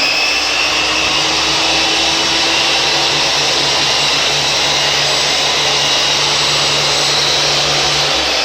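Ingco table saw's motor running with no load, a loud steady whine finishing its spin-up at the start. It is switched off near the end, the pitch falling as the blade winds down.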